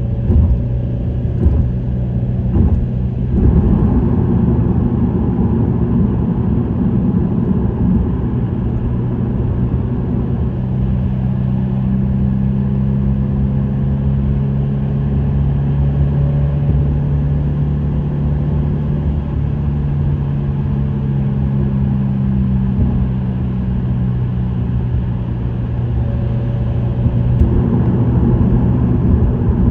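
Subaru WRX STI's turbocharged 2.0-litre flat-four engine with an STI Performance muffler, droning at a steady cruise over tyre and road noise. A few clicks come in the first seconds, and the sound swells slightly near the end.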